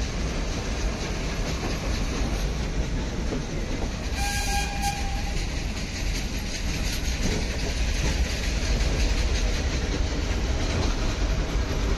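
Steam-hauled Nilgiri Mountain Railway toy train running with a steady low rumble and rail clatter, and one short whistle about four seconds in.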